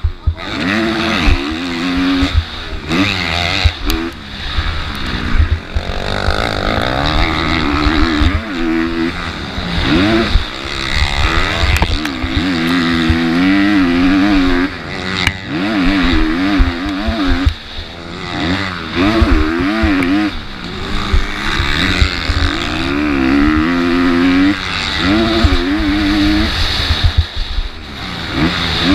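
Motocross bike engine revving up and falling back over and over as it is ridden hard through a race lap, its pitch climbing and dropping every second or two.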